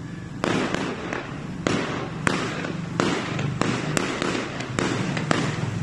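Fireworks going off: aerial shells bursting in a quick, irregular run of about a dozen sharp bangs and crackles, starting about half a second in.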